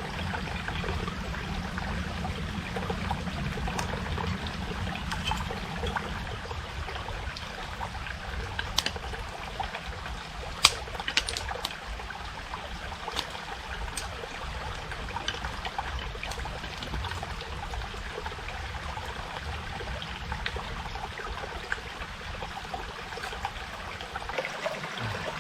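Small forest stream trickling steadily, with a few light clicks about halfway through.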